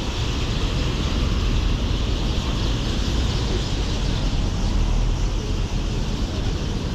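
Massed, continuous chatter of hundreds of roosting birds, which the uploader takes for starlings, over a steady low rumble of city traffic.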